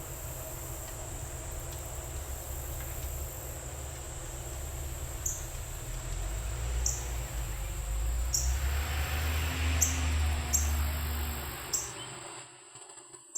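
Outdoor nature sounds: a steady high insect trill, with a handful of short falling chirps in the second half and a low rumble underneath that fades near the end.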